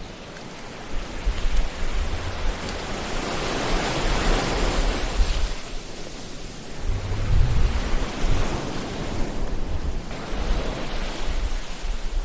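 Ocean waves breaking and washing on a shore: a steady rush of surf that swells twice, once near the middle and again in the second half, over a low rumble.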